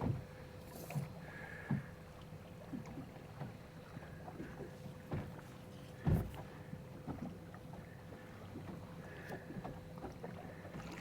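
A small flats boat rocking on calm water, with scattered light knocks and one louder thump about six seconds in, over a faint steady hum.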